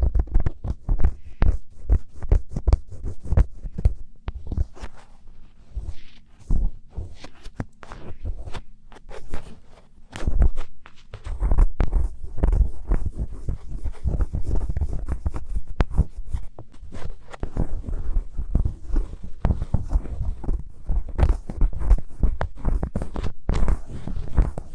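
Close-miked ASMR scratching: rapid, irregular scratches and scrapes, each with a dull thud. A faint high hiss joins about halfway through.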